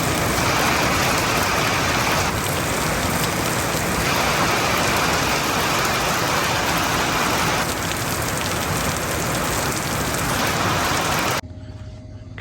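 Heavy rain pouring down steadily, cutting off suddenly near the end.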